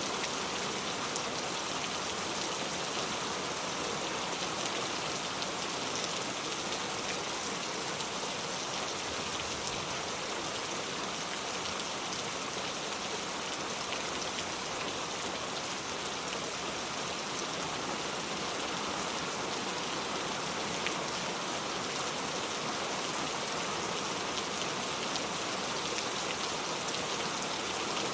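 Steady rain falling: an even hiss with scattered faint drop ticks, unchanging in level.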